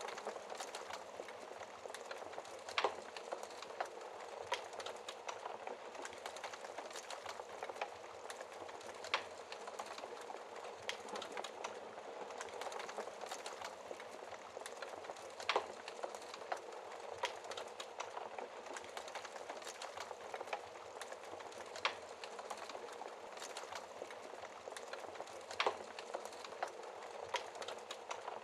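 Wood fire crackling in a fireplace: a steady soft hiss and crackle, with a sharp louder pop every few seconds.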